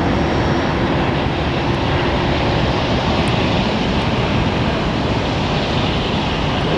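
Jet aircraft engines running, a loud steady rushing noise that eases off slightly over a few seconds.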